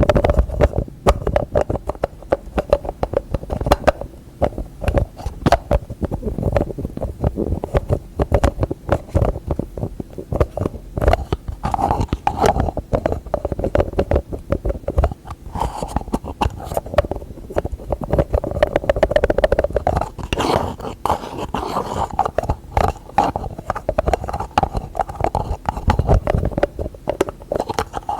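Fast, close-up tapping of fingers and nails on containers and their lids, many quick taps a second without pause, some with a short hollow ring.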